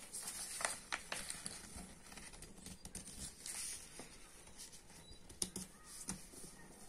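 Square sheet of coloured paper being handled and folded, with faint scattered rustles and crinkles as the creases are pressed.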